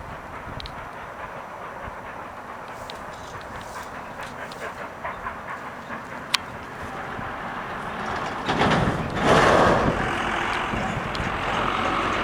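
Steam-hauled passenger train rolling along, with scattered clicks from the wheels on the rails. About eight and a half seconds in, a louder rushing noise swells for a second or two.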